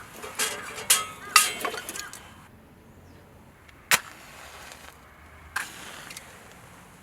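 A quick run of clattering knocks and scrapes with squeaky, ringing tones over the first two seconds, then a single sharp click about four seconds in and one more knock about a second and a half later.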